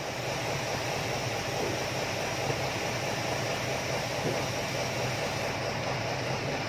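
A steady low hum under an even hiss, like an engine running at a constant idle, with no sudden events.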